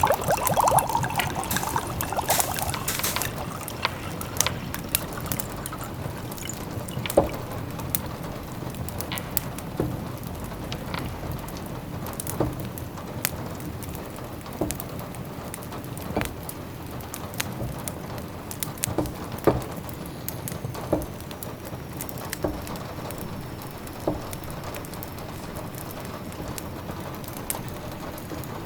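Layered cottage ambience: a fireplace crackling with scattered sharp pops over a steady haze of rain and simmering. The first few seconds hold a louder, denser liquid sound.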